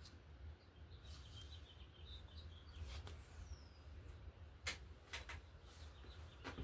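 Faint bird chirping in the background: a quick run of high chirps followed by one short falling whistle, over a low steady hum, with a few soft clicks.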